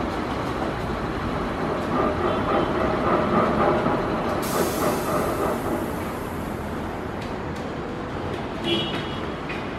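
Electric passenger train running over the rails: a steady rumble of wheels on track that swells for a few seconds in the middle, with a faint ringing tone over it.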